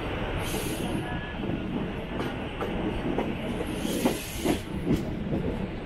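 Mumbai suburban EMU train running along the track: a steady rumble and rattle with scattered clicks of the wheels over rail joints, and two brief hisses, about half a second in and about four seconds in.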